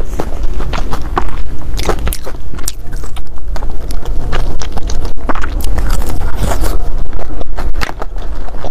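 Close-miked chewing and crunching of a crisp-topped bread roll, a dense run of quick crackly clicks.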